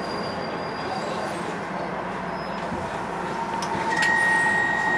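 Docklands Light Railway train running on the track, a steady rumble and rattle of wheels and carriage. About four seconds in, a steady high-pitched tone joins it and the sound gets louder.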